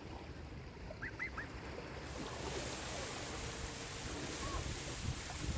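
Sea waves washing onto a shore, with a rush of surf swelling about two seconds in. A few faint, short, high calls sound in the distance.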